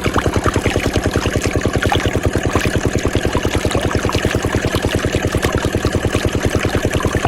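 Small diesel engine running steadily at a constant speed, with an even, rapid chugging beat, driving a water pump.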